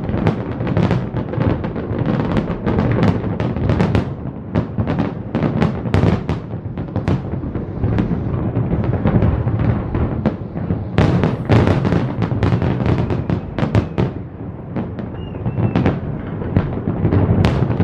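Fireworks display going off in a dense, continuous barrage of booming bangs and sharp cracks, several bursts a second, over a constant low rumble of overlapping explosions.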